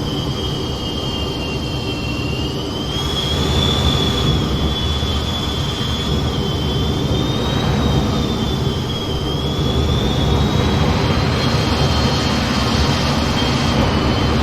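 F-15 jet engines running steadily in flight: a dense, continuous rumble with a thin high whine that slowly wavers up and down in pitch.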